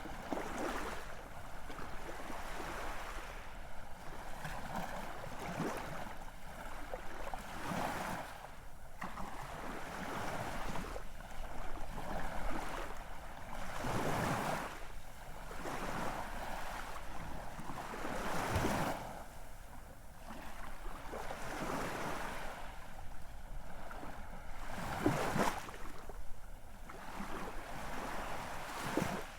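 Ocean waves washing ashore, a steady rush of surf that swells and falls back every few seconds.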